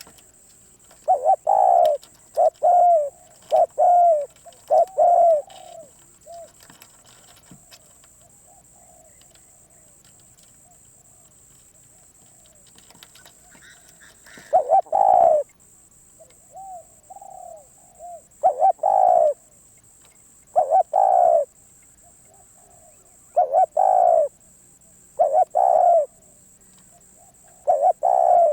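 Spotted dove cooing: a run of four loud coos in the first few seconds, then after a pause of several seconds, single coos and softer short notes about every two to three seconds.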